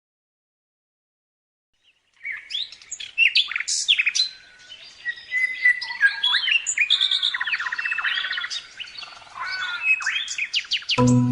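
A songbird singing a fast, varied song of chirps, sweeping whistles and trills, starting about two seconds in after silence.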